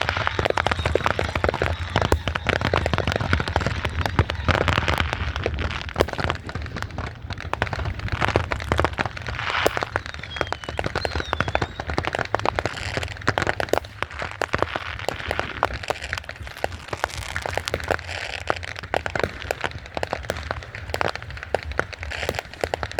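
Fireworks crackling and popping densely and without a break, many small reports overlapping. A short whistle wavers up and down about ten seconds in.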